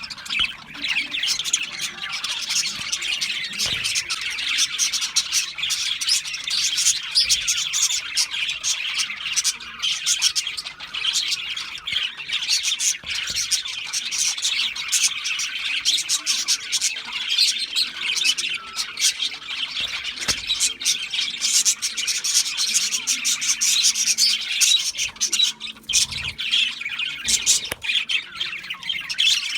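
Budgerigars chirping and chattering continuously, a dense stream of high chirps and squawks with many calls overlapping.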